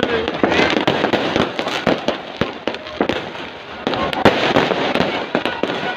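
Fireworks going off in rapid succession: many sharp bangs and crackles, some in dense clusters, over a constant din of crowd voices.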